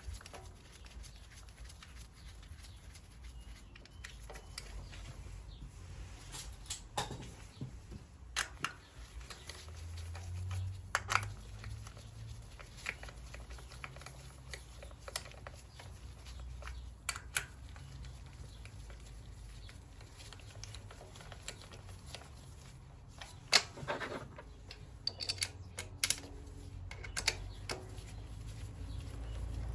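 Scattered clicks and light metallic knocks of hand tools and engine parts being handled during reassembly, over a low steady hum, with a small cluster of sharper clicks near the end.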